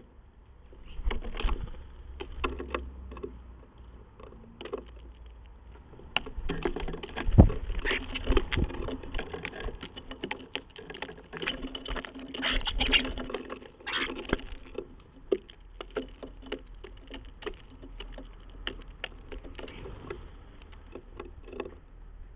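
Birds on a bird table, their feet and beaks tapping and scuffling on the table right by the microphone: a rapid, irregular patter of clicks that is busiest between about six and fifteen seconds in.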